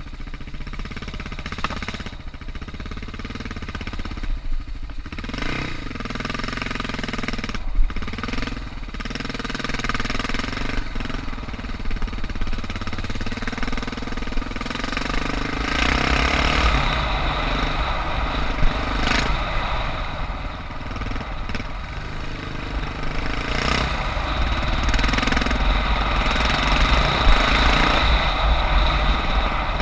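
Suzuki DR650's single-cylinder four-stroke engine running as the motorcycle is ridden on a dirt trail, its note rising and falling with the throttle and growing louder and busier about halfway through. A couple of sharp knocks stand out.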